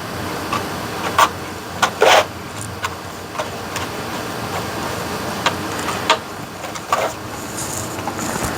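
Screws being driven by hand screwdriver into a plastic instrument-cluster housing: irregular sharp plastic clicks and clacks, a few louder knocks among them, over a steady background noise.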